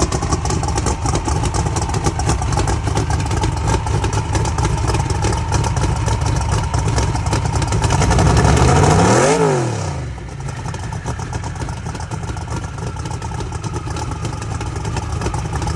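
Twin-turbo Chevy Nova's engine idling with a choppy beat. About nine seconds in it is revved once, the pitch rising quickly and dropping straight back to idle.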